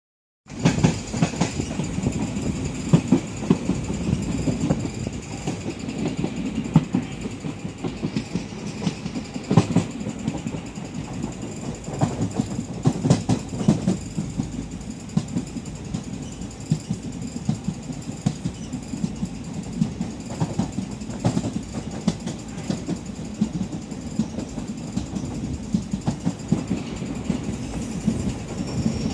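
Train running at speed, heard from on board: a steady low rumble with the wheels knocking irregularly over the rail joints.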